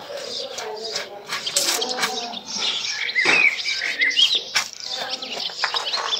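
Small birds chirping in short calls, most clearly from about three seconds in, over scattered sharp clicks and knocks.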